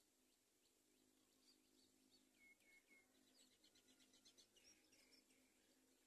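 Very faint, high-pitched bird chirps: three short notes about two seconds in, then a quick run of chirps through the middle, over a faint steady hum.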